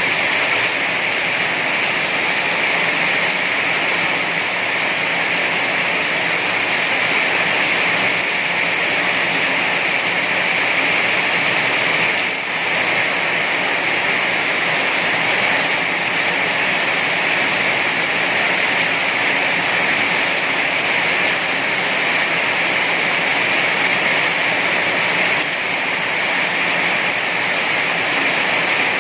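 Heavy rain falling steadily, a dense, even hiss of water with no single drops or thunder standing out.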